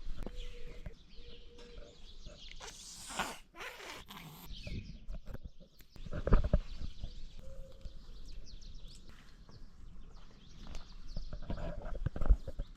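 Kittens playing: irregular scuffling and rustling, with a few dull thumps, the loudest about six seconds in and again near the end.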